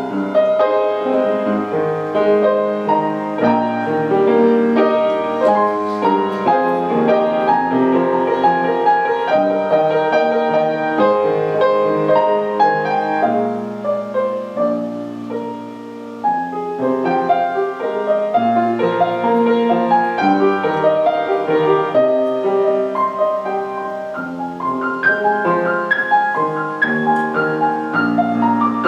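Solo piano playing a slow, gentle piece of held chords under a melody, softening briefly about halfway through.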